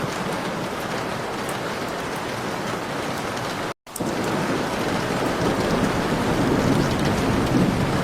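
Heavy rain pouring steadily, with a low thunder rumble building in the second half. The sound cuts out completely for a split second almost four seconds in.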